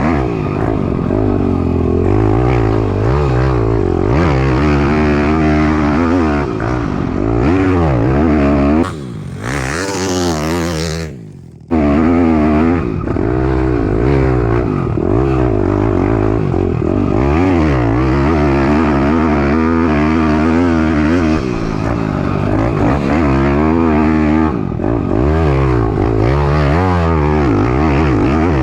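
Piranha 190 pit bike's single-cylinder four-stroke engine being ridden hard, revving up and down through the gears. About nine seconds in the engine note drops away for a couple of seconds, then comes back loud.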